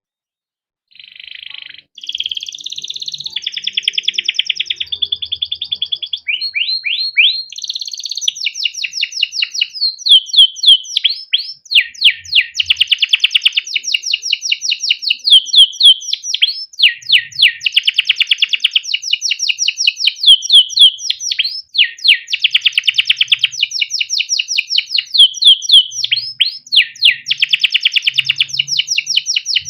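Male canary singing a long, unbroken song of rapidly repeated chirps and rolling trills, starting about a second in.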